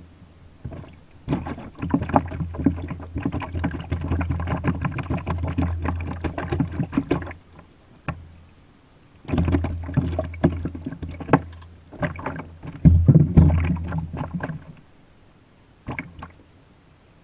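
Knocking and rattling on and around a kayak hull, with water against the boat, in two long stretches of busy handling separated by a short quiet gap.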